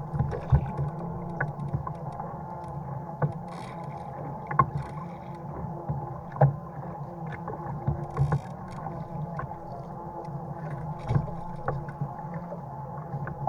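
Fishing kayak at sea: irregular knocks and taps on the hull and gear, over a steady hum.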